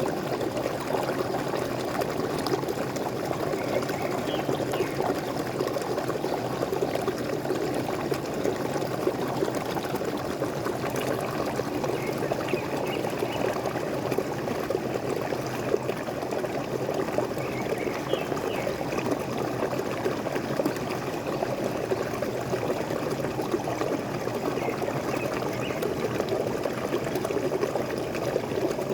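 Waterfall splashing and pouring steadily, with a few faint bird chirps here and there.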